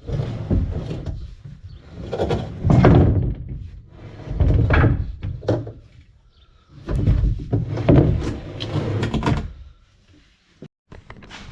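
Bumps, knocks and scraping in irregular bursts as a plastic caravan fresh water tank is worked loose and pulled out from under the caravan.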